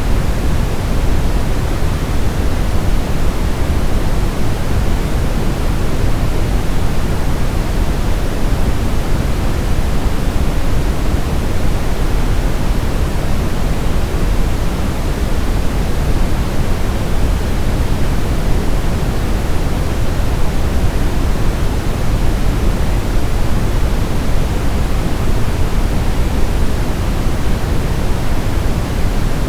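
Steady generated sleep noise: a deep, even hiss weighted toward the low end, unchanging throughout.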